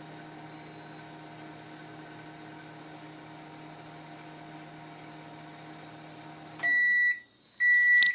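Microwave oven running with a steady hum that stops about six and a half seconds in. Two short, high beeps follow, the microwave's end-of-cycle signal, with a sharp click near the end.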